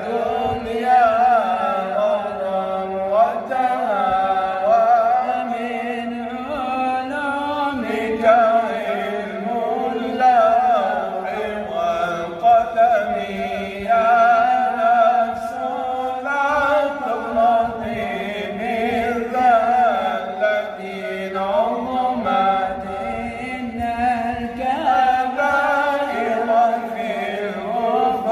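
A man chanting Arabic Islamic praise poetry in long, ornamented melismatic phrases, holding and bending each note.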